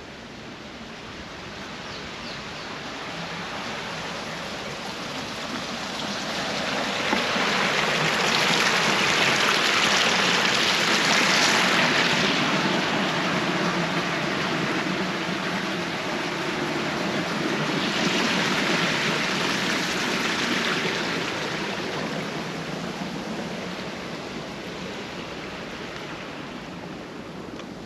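Running water rushing, a steady hiss that swells to its loudest about ten seconds in, eases, and swells again around nineteen seconds.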